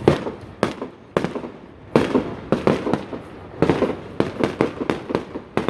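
Fireworks going off: a rapid, irregular series of about fifteen sharp bangs and pops, a fraction of a second apart.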